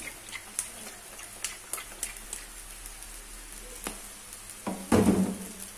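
Rice vermicelli frying in a wok: a steady, gentle sizzle of hot oil with scattered small crackles, as sesame oil soaks into the noodles. About five seconds in a louder burst of noise rises over the sizzle.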